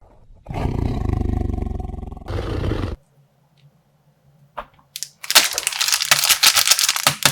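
A big cat's roar, played as a sound effect, lasts about two and a half seconds. From about five seconds in, plastic packaging is crinkled and crushed with sharp crackles as a slime bag is squeezed and torn open.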